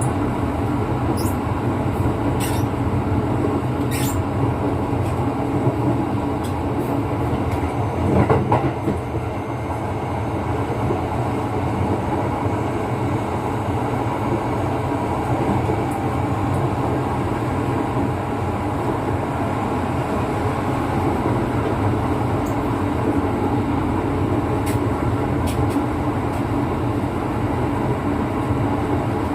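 Cabin of a Kintetsu 9020-series electric commuter train running along the line: a steady rumble of wheels on rail and running gear, with a brief louder clatter about eight seconds in and a few faint high ticks in the first few seconds.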